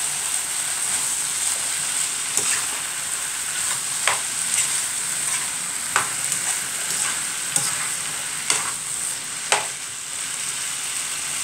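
Potatoes and chicken sizzling as they fry in a pan while being stirred, with the stirring utensil knocking sharply against the pan about six times, every second or two.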